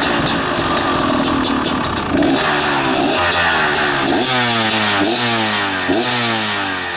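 Two-stroke dirt bike engine running through its freshly repaired FMF expansion chamber, with about three quick throttle blips in the second half.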